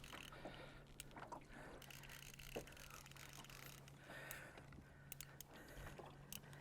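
Near silence: a faint steady low hum with a few faint scattered ticks and knocks.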